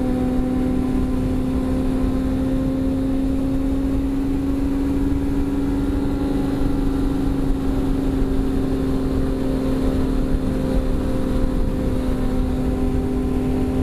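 Motorcycle engine running at a steady cruising speed, holding one even pitch, with wind rushing over the helmet-mounted microphone.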